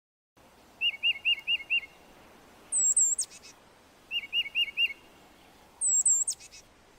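Titmouse song: twice, a quick run of four or five short whistled notes followed by a few much higher, sharp notes.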